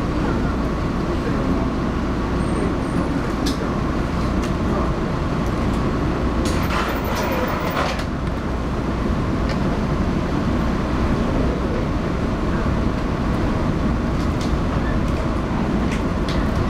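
Inside a JR 115-series electric train pulling away from a station and picking up speed: a steady rumble of motors and wheels on the rails, with occasional short clicks.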